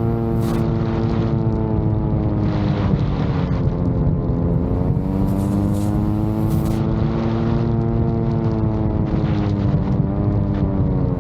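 VTOL drone's propellers humming steadily in flight, the pitch sagging and recovering a few times. Gusts of wind buffet the microphone now and then.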